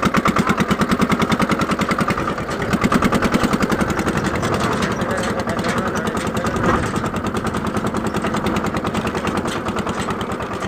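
Massey Ferguson mini tractor's diesel engine running steadily with a rapid, even chugging beat.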